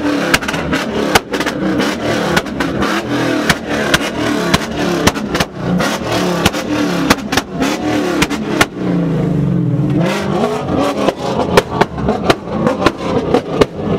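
Car engines revving hard, their pitch rising and falling, with frequent sharp pops.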